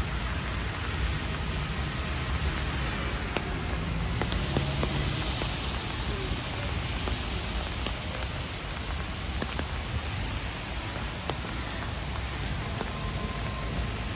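Heavy rain falling steadily as a dense hiss, with scattered sharp ticks of individual drops close by and a low rumble underneath.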